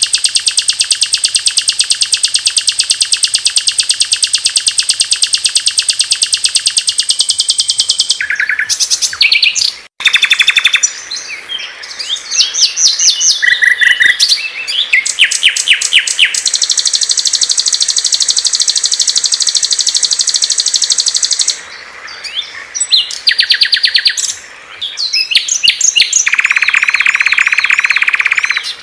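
Recorded songs of small songbirds played one after another as a masteran training track: a long, fast, high trill, then assorted chirps and short phrases, another long high trill, and a lower dense trill near the end. The clips are spliced with abrupt cuts, one with a brief drop-out about ten seconds in.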